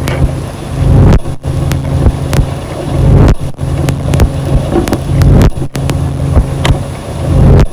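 Noise music: a loud, distorted low rumble with a steady hum, like an engine, cut by abrupt brief dropouts about every two seconds.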